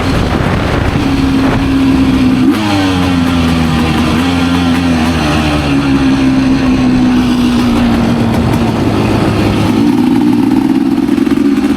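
Racing motorcycle engine running hard. Its pitch jumps about two and a half seconds in, sinks slowly for several seconds, then climbs again near the end.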